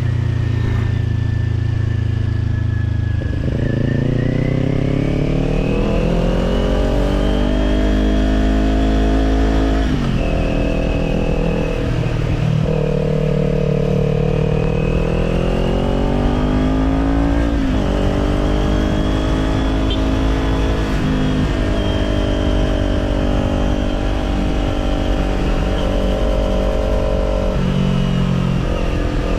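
Kawasaki Z400 parallel-twin engine running through an aftermarket Orion Katya slip-on exhaust while riding. It sits low at first, then climbs in pitch under throttle, drops sharply about four times as the rider shifts or eases off, and climbs again after each drop.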